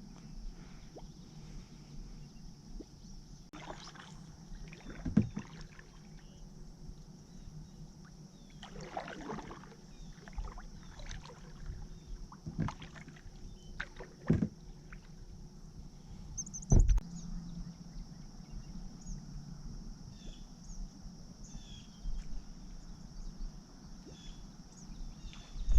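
Small knocks and bumps on a kayak as the angler fishes from it, the loudest about 5, 14 and 17 seconds in, with a short stretch of water or line noise around 9 seconds. Underneath runs a steady high insect chirr.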